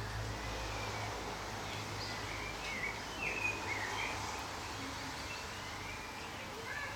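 Birds chirping in short, separate calls over steady outdoor background noise, with a low hum that fades about a second in.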